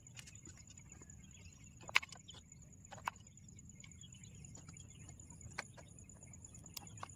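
A forest insect, cricket-like, trilling steadily at a high pitch, with a few sharp clicks or taps scattered through, the loudest about two seconds in.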